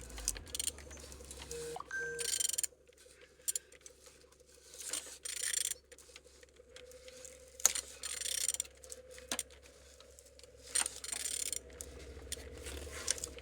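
A14XER engine turned over by hand with a wrench: bursts of scraping and hissing as the crankshaft turns, with sharp clicks of the tool in between. It turns freely, which is the sign the engine is not seized.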